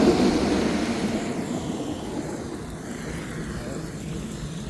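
A vehicle driving past, its rumbling noise fading away over the first two seconds and leaving a steady low background rumble.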